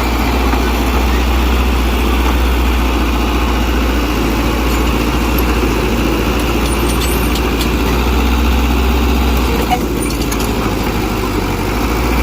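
Heavy earthmoving machine's diesel engine running steadily, a deep drone whose lowest part drops away about ten seconds in.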